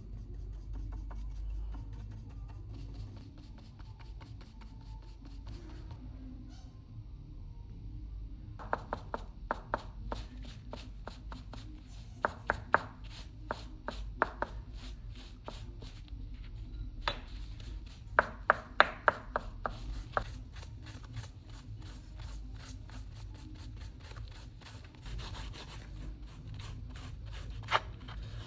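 Fast, even back-and-forth rubbing strokes of hand work, with clusters of sharp loud clicks, starting about a third of the way in, over a low steady hum.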